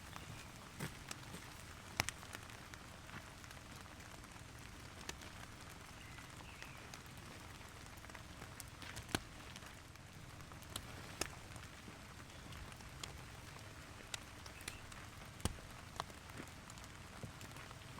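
Steady rain, with irregular sharp drops tapping among it, a few of them much louder.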